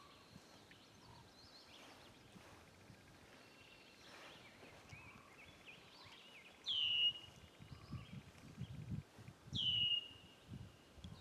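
A bird calls twice, about three seconds apart, each call a loud, clear note sliding down in pitch, over faint chirping from other birds. Soft low bumps come in the second half.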